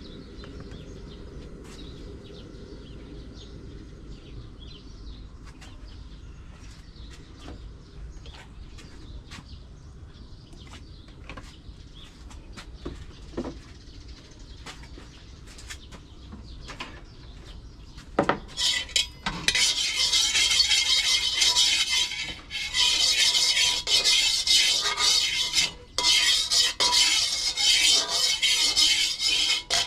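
Green papaya being prepared with kitchen utensils: soft scattered taps and clicks, then from about 18 seconds in a loud, steady scraping-rushing noise in long stretches with brief pauses.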